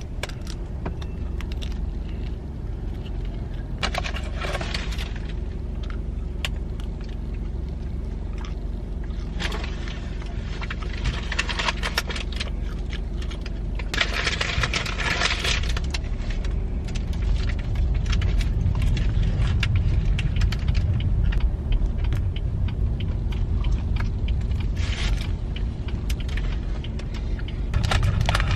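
Steady low rumble with scattered clinks and jangling rattles, a longer clattering stretch just past the middle; the rumble grows louder in the second half.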